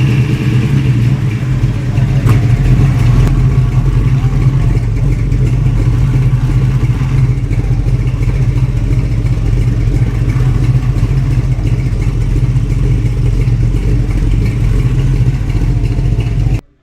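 A car engine running steadily and loudly at a fast idle, with a rapid, even firing pulse. It cuts off suddenly near the end.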